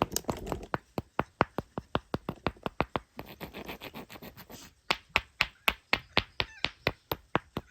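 Rocks being tapped together in quick succession, a steady run of sharp clicks about six or seven a second, softer and busier for a stretch in the middle.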